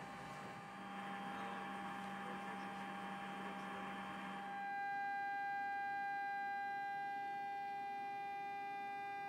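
Steady, faint electrical or machine hum with a high whining tone and several overtones. A background hiss under it drops away about five seconds in, leaving the hum clearer.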